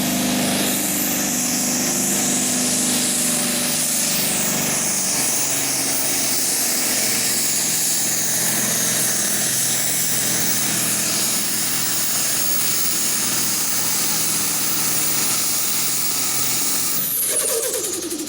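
Diesel farm pulling tractor running at full throttle, dragging the weight sled down the track. Near the end the engine revs drop off and a high whine falls away in pitch as the run ends.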